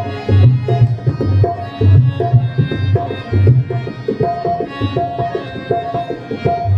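Instrumental interlude of a ghazal: tabla keeping a steady rhythm of deep strokes under a melody instrument playing held notes.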